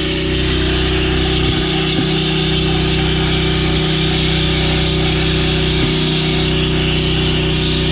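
Pressure washer running steadily, with the steady hiss of the wet sandblast nozzle spraying water and sand.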